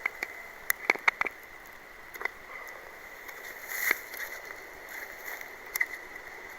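Knife whittling a point on a wooden stake: irregular sharp cuts and clicks, a quick cluster about a second in, then a longer scraping stroke ending in a snap near the four-second mark and another cut near the end.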